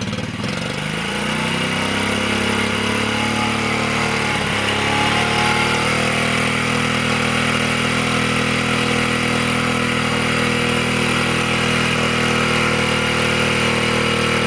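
1998 Honda 50cc motorcycle engine running just after a cold start, having sat unused for a long time. Its pitch climbs over the first couple of seconds, sags briefly about four seconds in, then settles into a steady fast idle.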